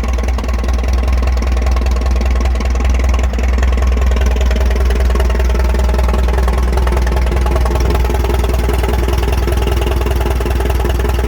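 1938 Farmall F20 tractor's four-cylinder engine running steadily at a low, even speed.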